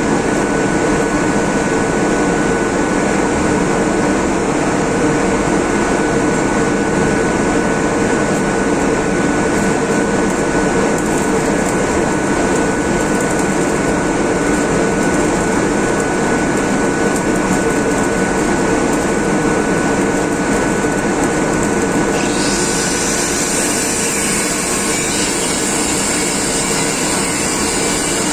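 A steady machine with a motor running continuously, with a constant whine over a dense noise. About 22 seconds in, its hiss turns brighter and stays so.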